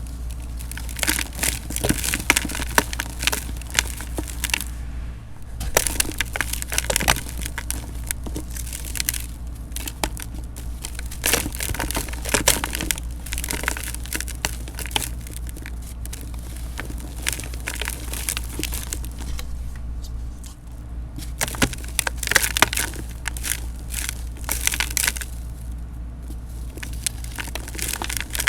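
Dried cement mixed with a little baking soda being crushed and crumbled in a pot: a dense, irregular run of crunches and crackles.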